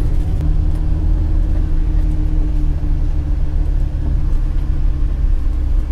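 Infiniti G35 driving on a gravel road: a steady low rumble of engine and tyres on gravel, with a few faint ticks.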